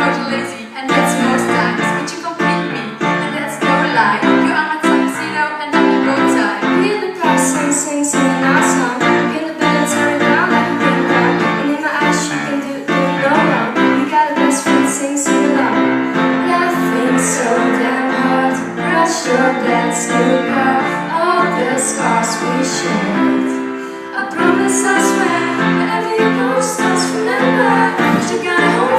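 Two girls singing a pop ballad together in English over a backing track.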